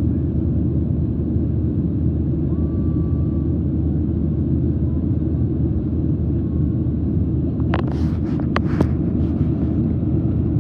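Steady low rumble of an airliner's cabin noise from the engines and airflow, with a quick run of four or five sharp clicks about eight seconds in.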